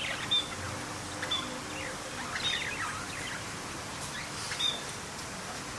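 Birds chirping: short high chirps and quick downward-sweeping calls, repeating about once a second over a steady background hiss.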